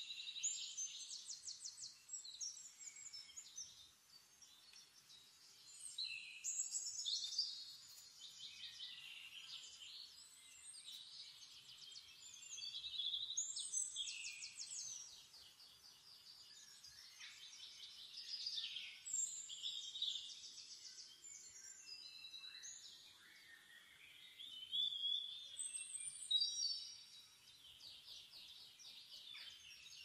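Birdsong: high-pitched, rapid trills and chirps coming in short bouts every couple of seconds.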